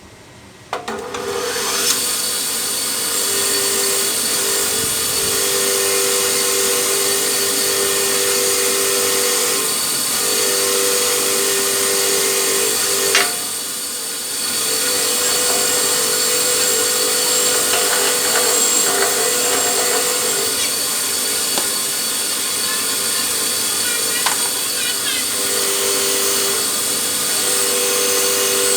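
An electric power tool starts about a second in and runs steadily at constant speed with a steady whine, easing off briefly about halfway through.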